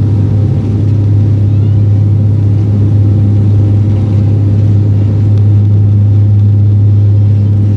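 Aircraft in flight: a loud, steady low drone with a few fainter steady tones above it.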